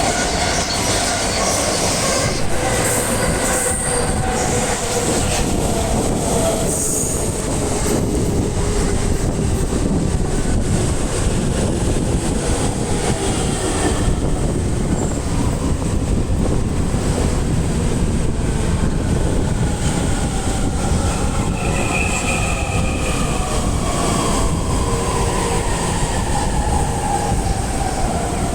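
JR East E231 series 1000-番台 electric train, two sets coupled, arriving and slowing: steady wheel-on-rail running noise with the traction inverter's whine falling in pitch, first in the opening seconds and again through the second half as it brakes.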